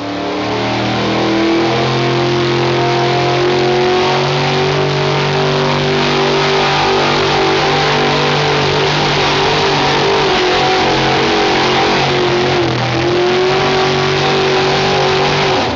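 Modified gas pulling truck's engine running at high, nearly steady revs under load, with a brief dip in pitch and level about three-quarters of the way through before it climbs back.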